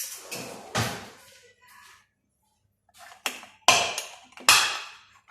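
Kitchen containers being handled and set down on a counter: a few quick knocks at the start, then after a short pause three louder knocks and clatters, the loudest near the end.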